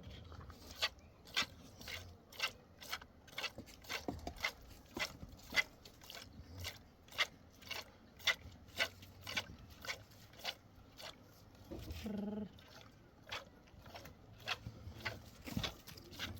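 Irregular sharp knocks or taps, roughly two a second, with a short animal call about twelve seconds in.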